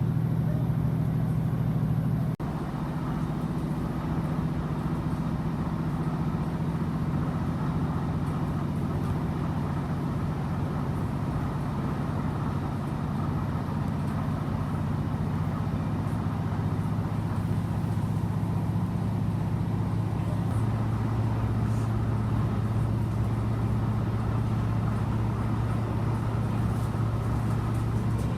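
Class 155 diesel multiple unit under way, heard from inside the carriage: a steady drone from the underfloor Cummins diesel engine together with running noise. The sound drops abruptly about two seconds in, and the engine note shifts lower about twenty seconds in.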